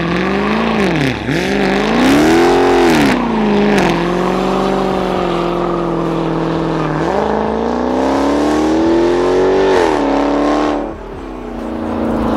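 Dodge Charger's 392 Hemi V8 revving hard through a burnout, its rear tires spinning. The revs swing up and down twice, hold steady, then climb for several seconds and drop off sharply near the end.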